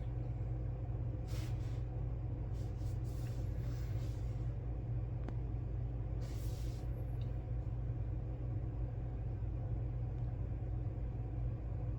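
Steady low hum in the room, with a few short soft rustles.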